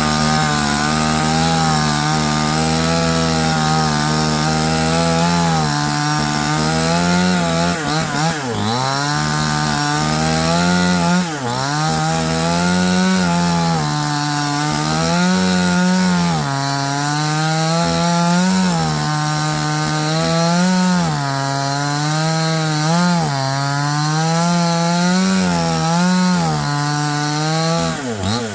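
Chainsaw cutting wood, its engine pitch sagging under load and picking back up about every two seconds, with a couple of deeper drops along the way.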